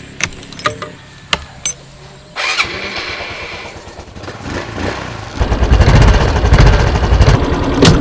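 Vehicle engine running at a low steady note with a few sharp clicks, then revving as it sets off, growing much louder about halfway through.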